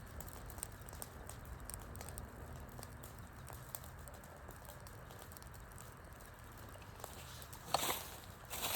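Wood fire crackling over a low steady rumble: a scatter of small ticks and snaps, with a few louder pops near the end.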